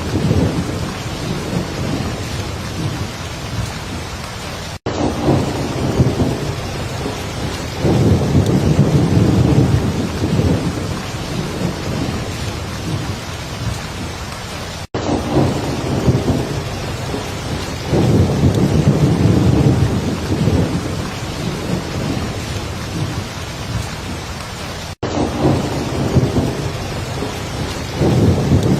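Heavy rain falling steadily while thunder rumbles over and over in long low swells. The sound cuts out for an instant about every ten seconds, where a short recording loops.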